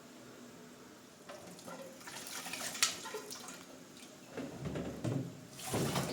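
Water running and splashing, with a sharp click near the middle and louder splashes near the end.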